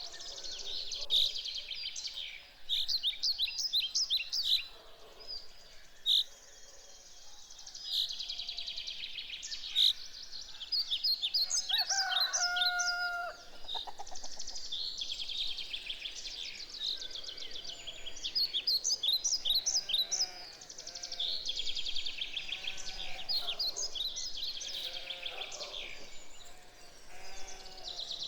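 Farm morning ambience: songbirds chirping and trilling steadily, with one steady, drawn-out livestock bleat about twelve seconds in and short, lower animal calls repeating through the second half.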